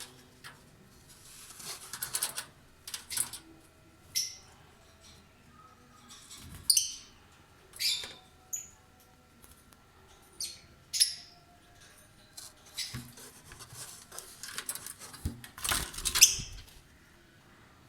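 Lovebirds giving short, sharp chirps and squeaks every second or so, with a few longer rustling bursts, the loudest near the end.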